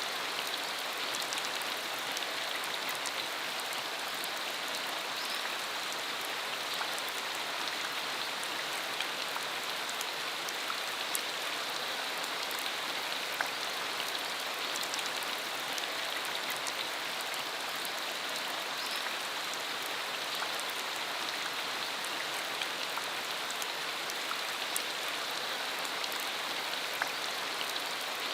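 Steady rain falling, with many small drops pattering and clicking on surfaces.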